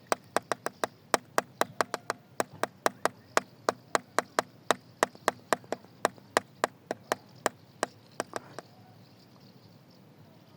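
A rapid series of sharp, hard knocks, about three to four a second and slightly uneven, that stops a little over eight seconds in.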